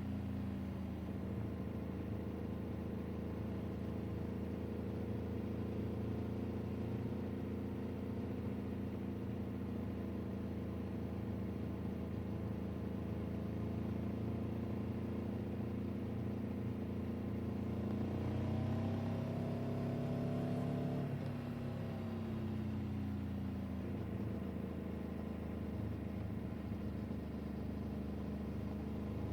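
Motor vehicle engine running steadily under way. Its note rises briefly about two-thirds of the way through, then settles back.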